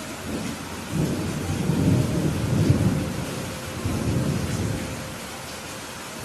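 Steady rain hiss with a low, rolling rumble of thunder that swells about a second in, peaks around two to three seconds, and fades away near the end.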